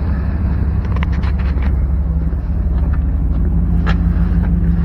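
Vehicle engine running steadily with a low hum, with a few light clicks and knocks over it.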